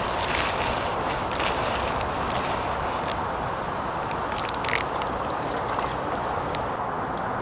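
Wind blowing, a steady rushing noise, with a few light clicks about four and a half seconds in.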